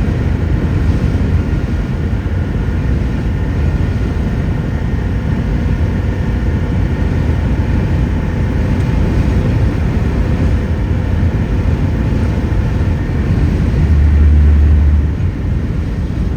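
Cab noise of a 10-metre RV driving at freeway speed in very strong wind: a steady low rumble of engine, road and wind. The low rumble swells for about a second near the end.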